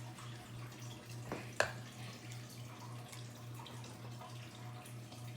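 Two sharp taps about a second and a half in, close together, over a steady low hum.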